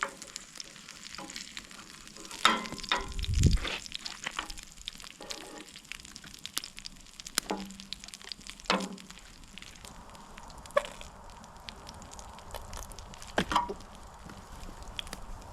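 Buffalo burgers sizzling on a camp grill over a campfire: a steady hiss with scattered crackles. A few louder knocks and clanks come through, the loudest about two and a half to three and a half seconds in.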